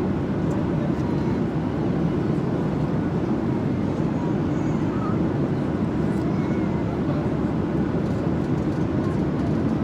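Airliner cabin noise: the steady low rush of the jet engines and airflow, heard from inside the cabin.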